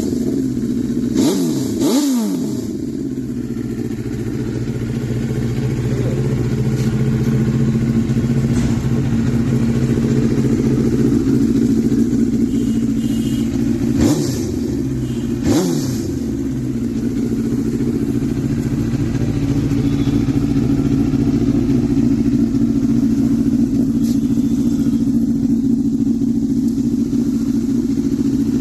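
2008 Honda CBR1000RR Fireblade's inline-four engine idling after a cold start, blipped twice about a second in and twice more about halfway through, each rev rising and falling quickly before settling back to a steady idle.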